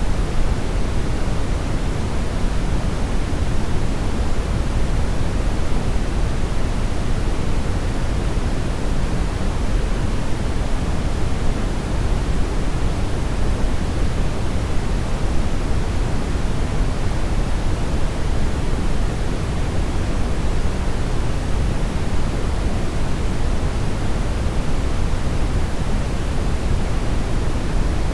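Steady synthetic brown noise: an even, deep rushing hiss, heaviest in the bass and dull in the treble, with no change throughout.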